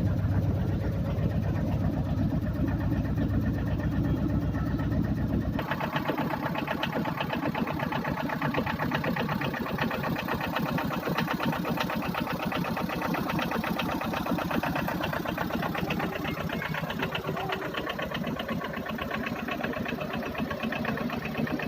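Tata Ace mini-truck engine idling with a fast, even clatter. About five seconds in the sound changes abruptly: the deep rumble drops away and a higher, busier ticking carries on.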